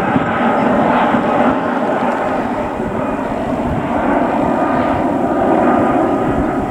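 Airbus A319 jet airliner's CFM56 turbofan engines running, a steady loud jet noise with a few held high tones in it.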